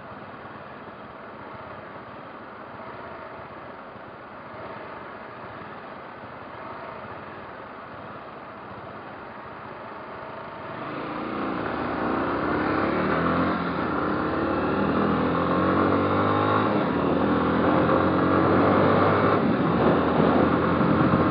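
Motorcycle riding with a steady rush of road and wind noise. About halfway through, the engine is opened up and gets much louder, its pitch climbing as it accelerates.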